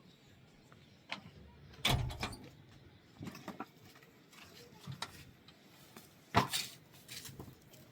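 Irregular knocks and clatters, a handful of sharp thumps spread over several seconds, the loudest about two seconds in and again about six and a half seconds in.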